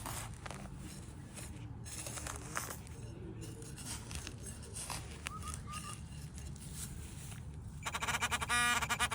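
Soil and turf crunching and tearing as a plug is dug out over a metal-detector target, with a few short high chirps about five seconds in. Music starts near the end.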